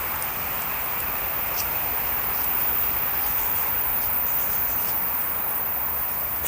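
Steady rainforest insect chorus, an even hiss with no pauses, with a few faint short ticks over it.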